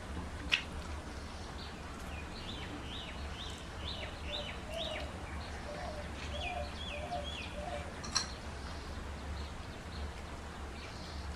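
A small bird singing in the background: a run of quick, short chirping notes, then a second shorter run of three. Two sharp clicks and a steady low hum are heard as well.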